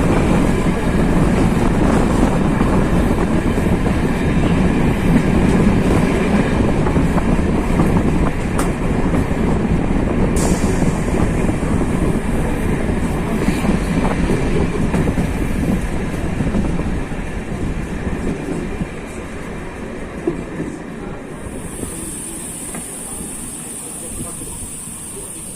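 Diesel-hauled passenger train, a GT26HCW-2A locomotive with Corail coaches, running past with a dense rumble of wheels on rail that fades steadily over the last ten seconds as it moves away. A steady high-pitched whine comes in near the end.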